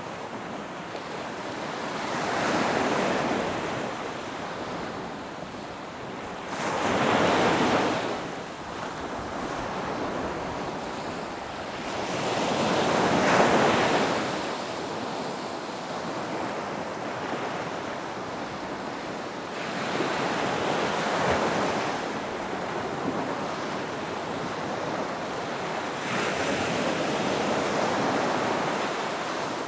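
Ocean waves breaking on a beach, each swelling up and washing back every five or six seconds over a steady surf hiss, with a loud break a little under halfway through.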